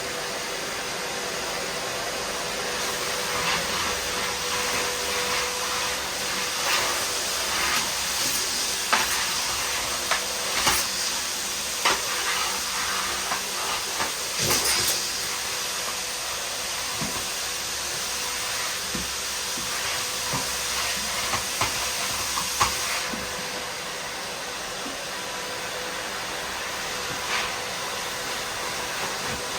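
Miele vacuum cleaner running steadily, a rushing air sound with a steady hum-tone under it. Sharp crackles and clicks come and go, mostly in the first two-thirds: grit and debris being sucked up through the nozzle and hose.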